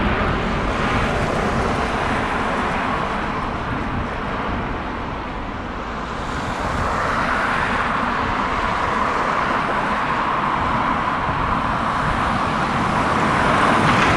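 Distant, steady rumble of the Airbus A350-1000's Rolls-Royce Trent XWB engines as the airliner climbs away after takeoff. It eases off slightly about five seconds in, then swells again.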